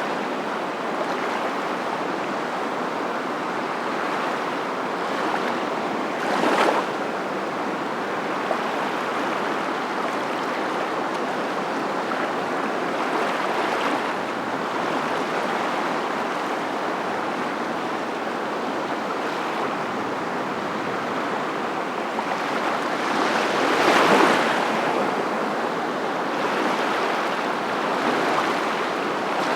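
Steady rushing noise with no distinct tones, swelling briefly twice, about six seconds in and again about three-quarters of the way through.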